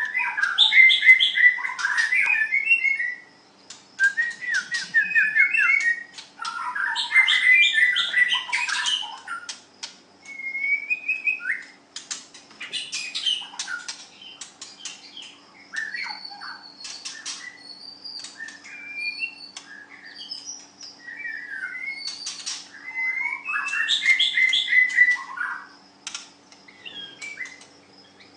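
White-rumped shama singing: varied phrases of clear whistles, fast trills and chattering note runs, in bursts of a few seconds with short pauses between.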